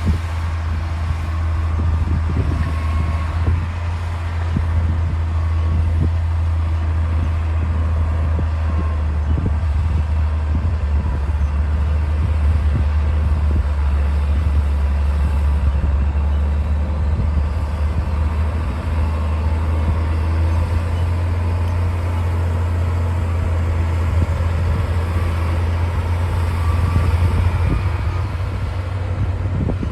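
D60 bulldozer's diesel engine running steadily under work, a deep continuous drone with scattered knocks and clanks over it.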